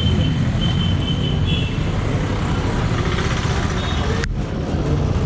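Jawa Classic 300's single-cylinder engine running, its exhaust giving a steady low rumble over road noise, with a sharp click about four seconds in.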